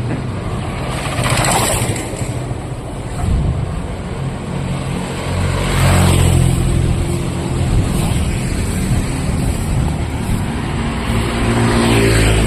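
Road traffic: motor vehicles passing close by one after another, their engines running, with the loudest pass-bys about a second in, around the middle and near the end.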